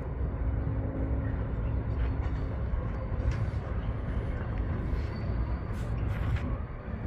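Freight train rolling past: a steady low rumble of wagons running on the rails, with a few sharp clicks in the second half.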